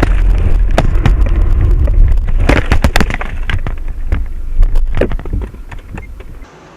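Car on the move: a heavy low rumble with many sharp knocks and clatters scattered through it, cutting off suddenly near the end.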